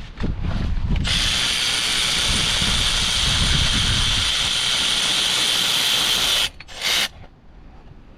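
Cordless power tool running steadily for about five and a half seconds as it undoes a gearbox bolt. It cuts off suddenly, then gives one short blip about half a second later.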